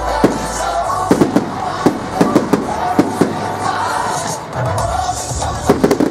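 Fireworks going off in a rapid series of sharp bangs, coming in clusters, over music.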